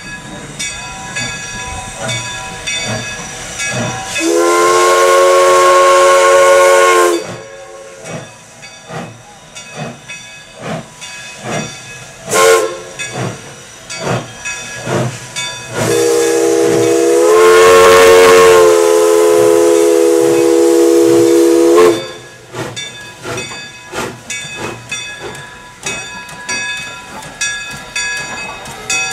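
L&N 152 steam locomotive blowing its chime whistle twice, a three-second blast and then a longer six-second one, several notes sounding together. Between and around the blasts come regular exhaust chuffs at about two a second, with a hiss of steam.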